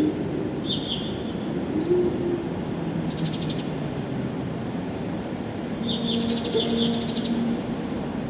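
A songbird singing short repeated phrases, each a high note dropping into a buzzy trill, three times about three seconds apart. A steady low background rumble runs under the song.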